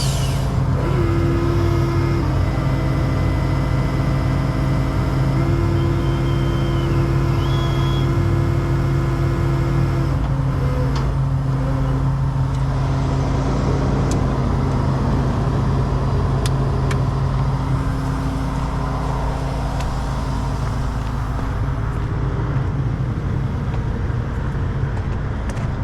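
A heavy truck's diesel engine running steadily, with a whine that steps up and down in pitch over the first ten seconds or so. The hum eases a little about eighteen seconds in.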